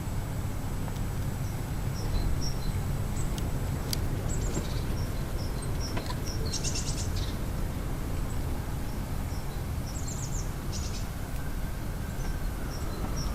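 Small birds chirping: scattered short, high notes, with two quick rattling clusters of notes around the middle, over a steady low rumble.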